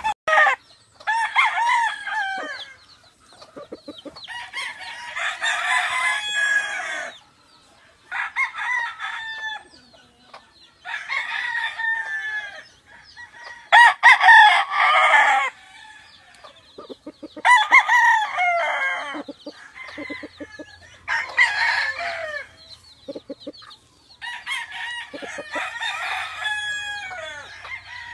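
Gamefowl roosters crowing one after another, about ten crows, some overlapping from different birds.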